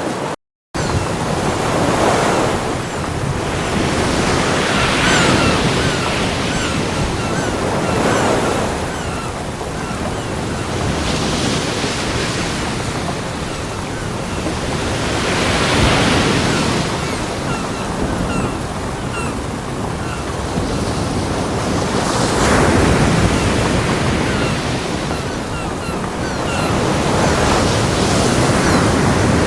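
Ocean waves breaking on a beach: steady surf, with a wave swelling and washing in every three to six seconds. The sound cuts out completely for a moment about half a second in.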